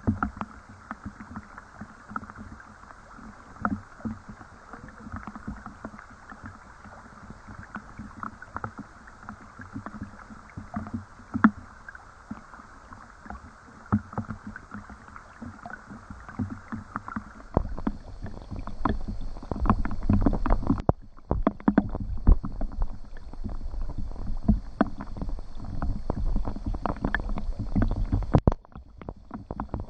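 Rain with water splashing and lapping: many scattered drops and small splashes over a steady hiss. From about two-thirds of the way in, a low rumble and denser, louder splashes join.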